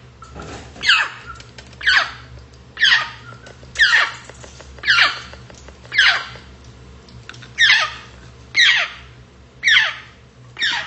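Grey parrot calling over and over, about once a second: each call is a short squeal that falls steeply in pitch, with one slightly longer pause midway.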